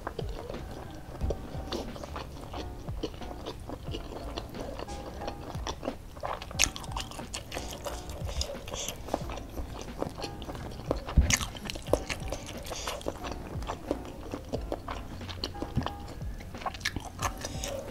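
Close-up mouth sounds of a person eating rice and spicy stir-fried squid with the fingers: scattered wet chewing, smacking and small crunching clicks, over faint background music.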